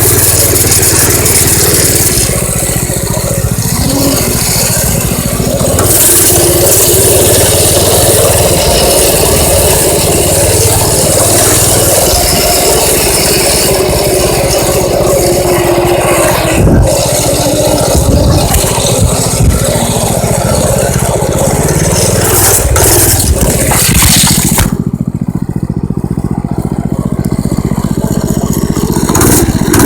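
Minibike's small engine running steadily as it is ridden, with rattling and scraping noise over it. The hiss in the upper range drops away about 25 seconds in.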